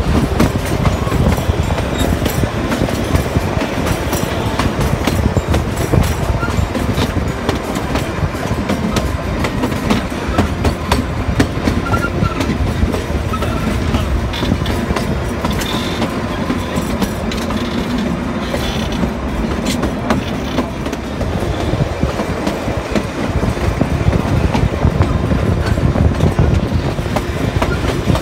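Kalka–Shimla narrow-gauge toy train running, its carriage wheels clattering steadily on the track as heard from aboard the train.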